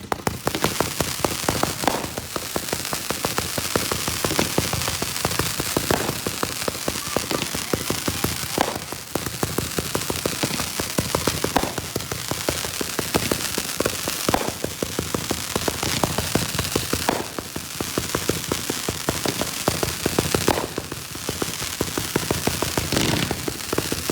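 Consumer fireworks crackling densely and without a break, with a louder pop every few seconds.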